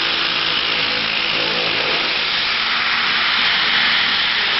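Power tool cutting sheet steel in a rough cut, running steadily as a constant noise.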